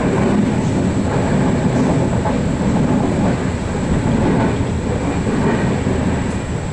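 Vivalto double-deck passenger coach running along the line, heard from on board: a steady rumble of the wheels on the track.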